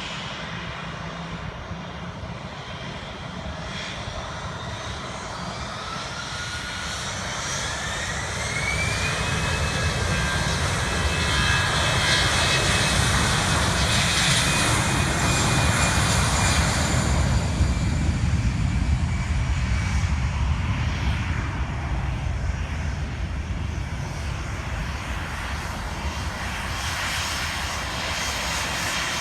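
Allegiant Airbus jet's turbofan engines spooling up for departure: a whine climbs steeply in pitch and then holds steady, while the engine roar builds to its loudest around the middle and then fades away.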